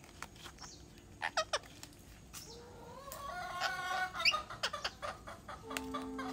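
Birds calling: a few short chirps about a second in, then a longer run of calls with a quick rising note about four seconds in. A steady low tone begins near the end.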